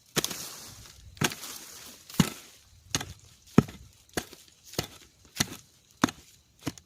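A hand tool chopping repeatedly into the ground and the base of a bamboo shoot to dig it up: about ten sharp strikes, roughly one every two-thirds of a second.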